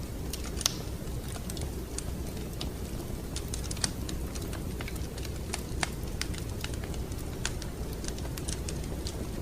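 Wood fire in a fireplace crackling over a steady low rumble of flame, with irregular sharp pops, a few of them louder.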